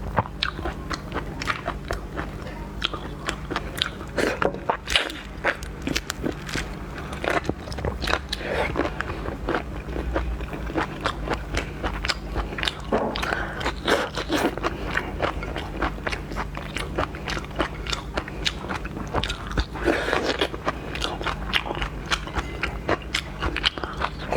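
Close-up eating sounds of seafood being bitten and chewed: a dense, irregular run of crunches, cracks and wet chewing clicks over a steady low hum.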